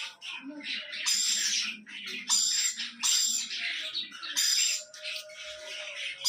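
Young budgerigars giving a series of scratchy, rasping calls, each about half a second long, repeated roughly once a second.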